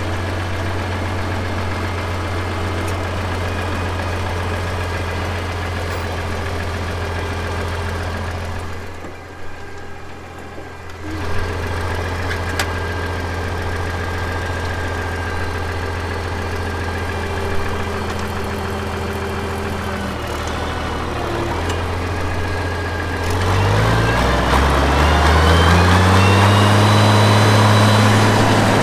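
Vehicle engine idling steadily, briefly quieter partway through, then revving up near the end: the pitch climbs and it gets louder.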